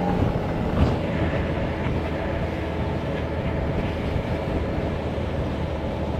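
Motorcycle riding at a steady pace: the engine running evenly under a constant rush of wind and road noise, with one short knock just under a second in.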